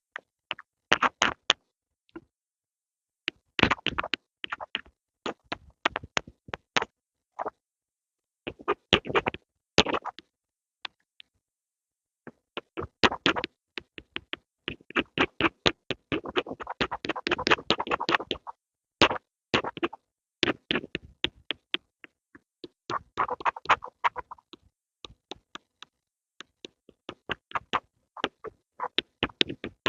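Pencil ASMR sounds: groups of quick, sharp taps and scratches, several strokes a second, broken by short silent pauses.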